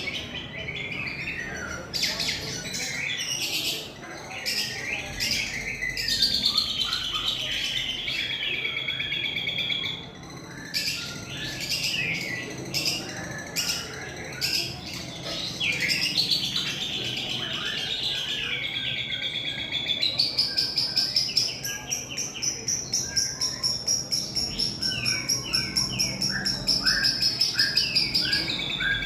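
Long-tailed shrike singing constantly, mimicking a lovebird's long chattering trill (ngekek). It gives rapid repeated notes with long unbroken runs, the longest in the second half.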